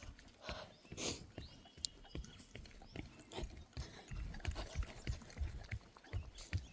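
A bulldog breathing and sniffing on a walk, over soft, irregular footfalls with scattered small clicks.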